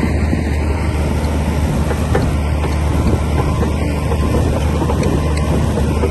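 Komatsu D60P crawler bulldozer's diesel engine running steadily under load, with a continual light clatter of metal from the tracks and blade.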